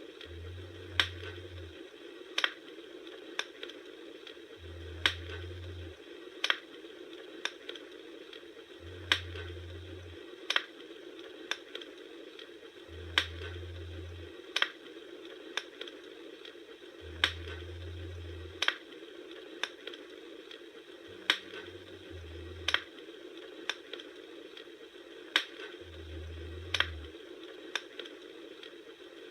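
Bonfire crackling: sharp wood pops about once a second over a steady hiss of burning, with a low rumble that swells and fades every few seconds.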